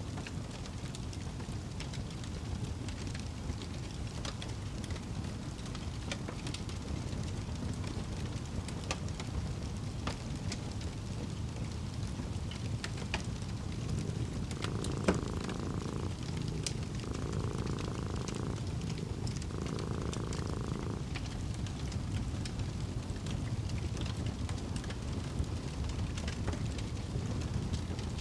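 Fireplace crackling over a steady low rumble, with scattered sharp pops, and a cat purring. The purring is clearest in three stretches of about a second and a half each, about halfway through.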